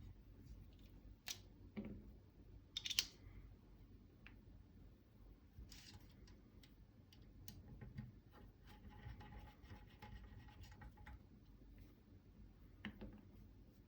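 Faint, scattered small clicks and light scraping of a T20 Torx driver turning 8-32 screws into the side of a SCAR 15P forend rail, with a sharper cluster of clicks about three seconds in.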